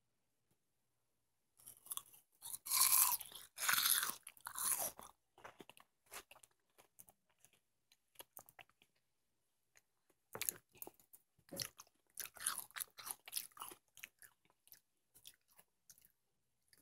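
Watermelon being bitten and chewed, crunching in two loud bursts, about two seconds in and again about ten seconds in, with softer, sparser chewing clicks between and after.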